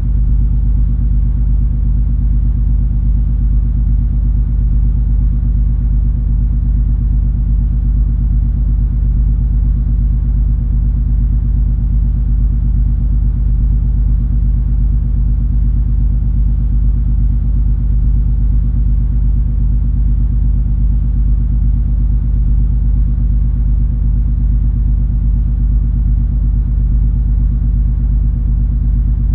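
Steady low rumble and hum of the MS Color Fantasy cruise ferry under way, its engines droning evenly with no change in pitch or level.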